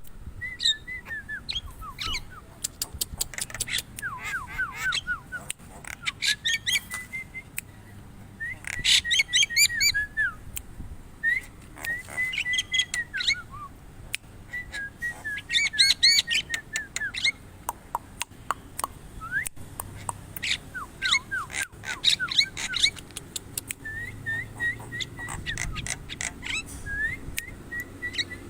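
Javan myna singing: phrases of whistled notes, some sliding downward, mixed with rapid sharp clicks and chatter, coming in bursts every second or two.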